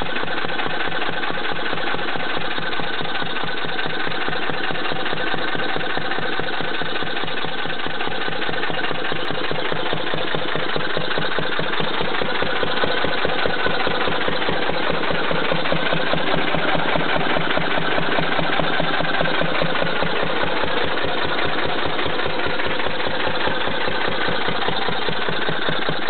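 Petter stationary engine running steadily with its air compressor, an even, rapid beat of firing strokes at a constant speed, running smoothly.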